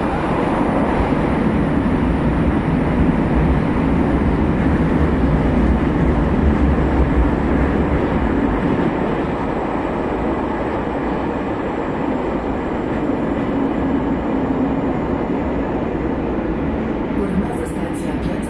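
Bucharest Metro train running between stations, heard from inside the carriage: a steady loud rumble and rush of wheels on rails and running gear, easing slightly about halfway through. A faint high-pitched whine slowly falls in pitch, and short high hisses come in near the end.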